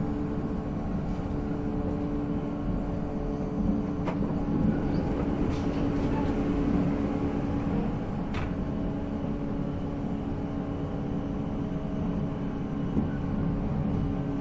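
485-series electric train's MT54 traction motors whining at a steady pitch while running at speed, over the rumble of wheels on rail, heard from inside the car. A few sharp clicks come about four, five and a half and eight and a half seconds in.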